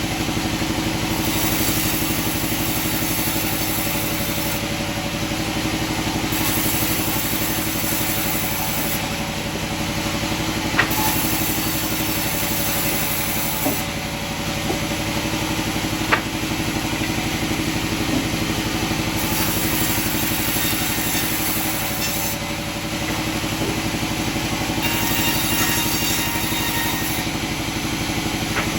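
Sawmill machinery running with a steady engine hum. A higher hiss comes and goes every few seconds, and there are three sharp knocks near the middle.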